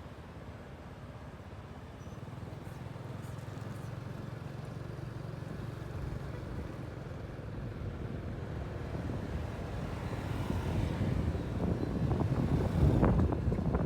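Motorcycle engine running steadily under way, mixed with wind rush on the microphone that grows louder and more buffeting toward the end.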